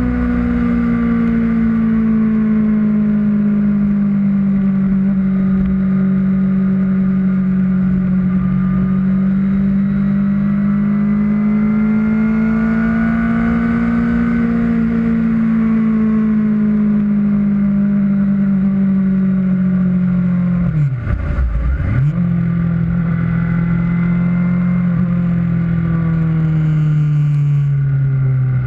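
Kawasaki Ninja ZX-6R inline-four engine running at steady cruising revs, its pitch drifting gently up and down. The revs dip sharply and pick up again about two-thirds of the way through, then fall away near the end. Wind rumble sits underneath.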